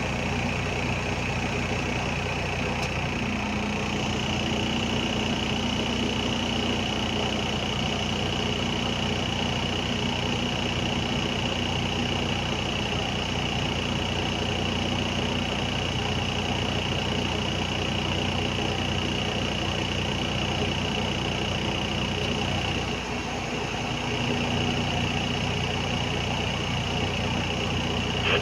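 Diesel engine of a heavy earthmoving machine running steadily, with a steady high-pitched whine over it. A few seconds before the end the engine note dips briefly, then picks back up.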